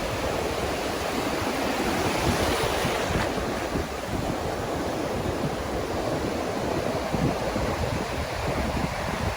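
Ocean surf washing on the beach in a steady wash of noise, with wind buffeting the microphone in low, uneven rumbles.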